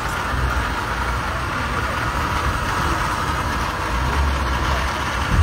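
Vehicle engine running with a steady low rumble, heard from on board the vehicle, over a hiss of background noise.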